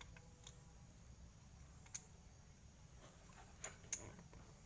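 Near silence with a few faint sharp clicks, two of them close together near the end.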